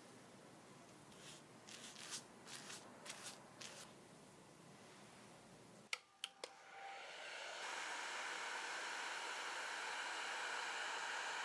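A few short rustling strokes, then a couple of clicks and a small electric blower switching on and running steadily.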